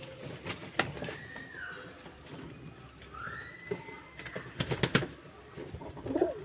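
Pigeons being fed: two drawn-out high squeaks, scattered sharp clicks and taps, and a low wavering call near the end.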